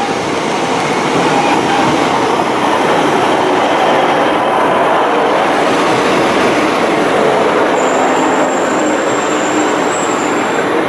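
Class 150 Sprinter diesel multiple unit running into the platform right beside the microphone, a loud steady rumble of engines and wheels on the rails. A thin high squeal from its brakes or wheels comes in about eight seconds in as it slows to stop.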